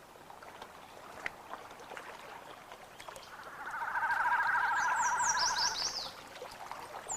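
Wild birds calling: a rapid, even trill lasting about two and a half seconds starts about three seconds in, and a run of short, high, falling chirps overlaps its second half.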